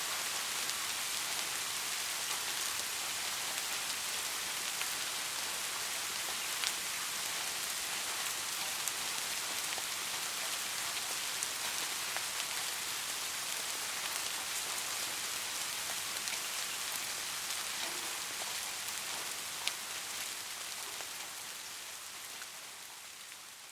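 Steady rain falling on a surface, an even hiss with a few sharper drop ticks; it fades down over the last few seconds.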